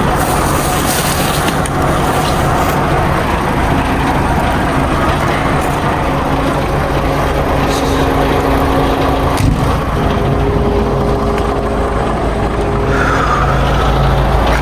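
A truck's diesel engine running steadily with road noise, a low hum underneath; a brief higher tone joins about ten seconds in.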